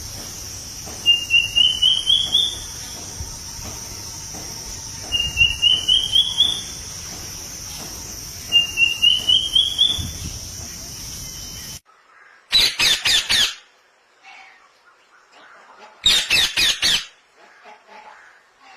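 A bird singing three times, each phrase a quick run of notes rising in pitch, about four seconds apart, over a steady high-pitched drone. After a sudden cut comes a different recording with two short bursts of rapid, harsh bird calls.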